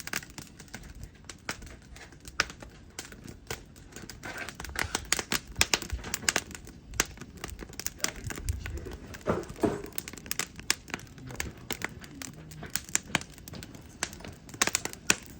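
Dense, irregular crackling and crinkling clicks.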